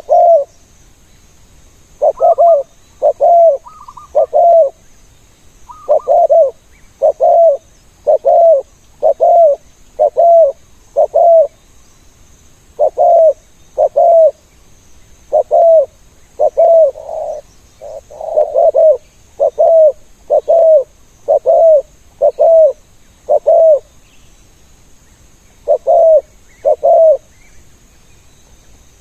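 Spotted dove cooing, a run of low coo notes about one a second in phrases with short pauses. A few phrases open with a higher note.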